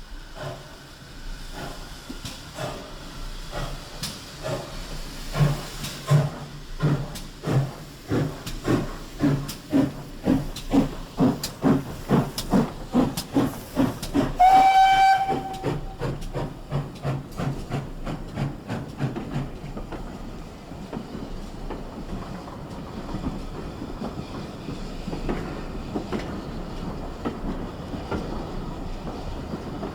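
GWR 6400 class 0-6-0 pannier tank steam locomotive starting away, its sharp chuffing exhaust beats growing louder and quicker. About halfway through it gives one short whistle, then the beats soften into a steady running rumble as the train gets under way.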